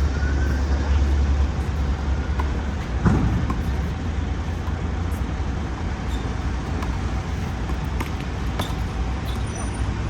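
Steady road traffic rumble, heavier in the first second and a half, with a few sharp knocks on top.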